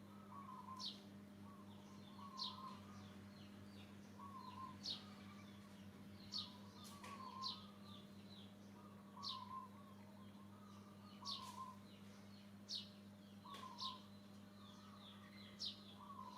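Faint bird calls: short sharp high chirps repeated about every second or so, with softer warbling notes beneath them, over a steady low hum.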